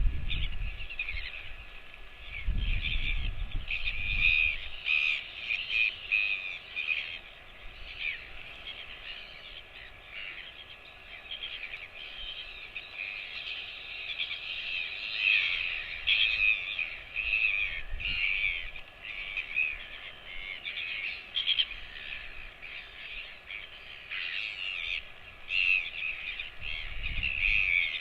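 Birds calling continuously, many short overlapping calls, with a few low thumps near the start and again near the end.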